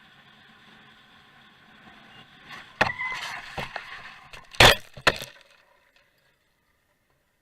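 Car crash: a sharp impact about three seconds in, then crunching and clattering, with the loudest bang about a second later and one more just after it.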